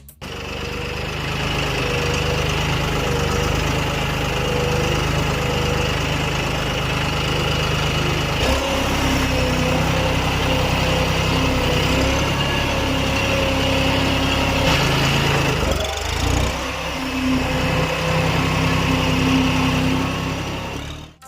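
A small motor running steadily with an engine-like drone, its tone shifting about eight seconds in and again near sixteen seconds.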